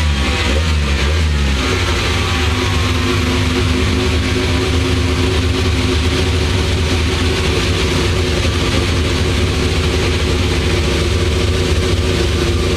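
Car engine with a loud, powerful exhaust: the revs fall over the first couple of seconds, then it runs at a steady speed.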